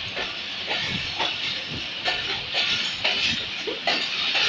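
Passenger train running through a station yard, heard from the moving carriage open to the outside: a steady hiss of wheel and rail noise with irregular clacks and clanks as the wheels cross rail joints and points.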